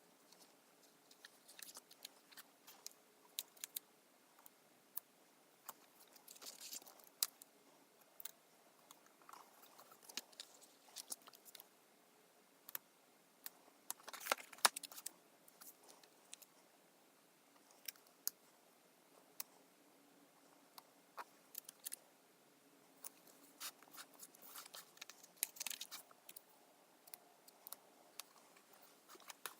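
Faint, scattered clicks, taps and rustles of paper sticker sheets being handled, with stickers peeled off and pressed onto planner pages.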